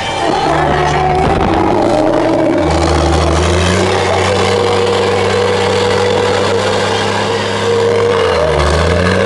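Race truck engines running loudly, their pitch holding and then shifting in steps, with a slow glide down early on and a brief dip and rise near the end.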